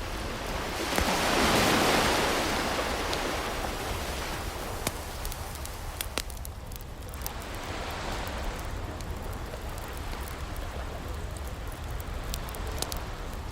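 Ocean waves washing ashore, one swelling up and breaking about a second in and a smaller one around eight seconds, over a wood fire crackling with scattered sharp pops.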